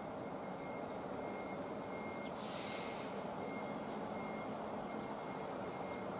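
Tobu 8000-series train 8160F rolling slowly, a steady low rumble with a thin, steady high tone over it. About two and a half seconds in comes a short burst of air hiss.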